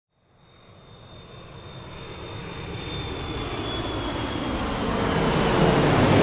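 Airplane cabin noise, an even rushing sound that swells steadily louder from silence. A high whine near the start fades away.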